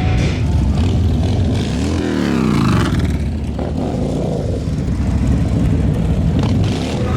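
A motor vehicle engine running hard and revving, its pitch rising and then falling about two seconds in.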